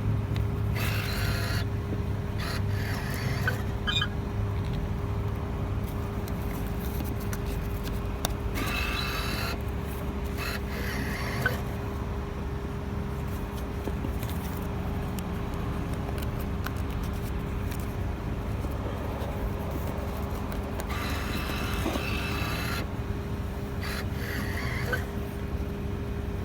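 Car engine idling steadily with a low hum, while the car waits at a car wash pay station; short bursts of hissing or rustling noise come and go several times over it.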